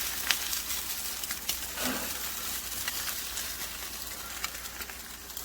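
Eggs frying on a HexClad hybrid stainless-and-nonstick griddle: a steady sizzle with scattered sharp crackles and pops.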